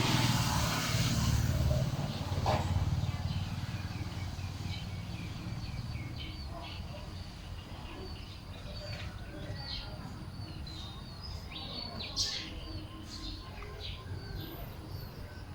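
Small birds chirping: many short, high calls, some quickly falling in pitch, repeated at irregular intervals. A low rumble is loudest at the start and fades over the first three seconds.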